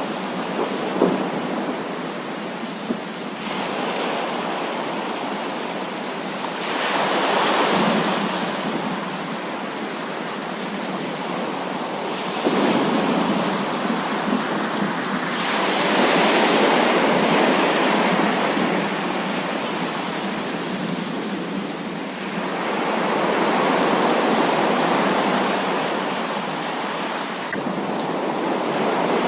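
Heavy rain pouring steadily, with several long swells of rolling thunder that build and fade over a few seconds each. A couple of sharp drip taps stand out near the start.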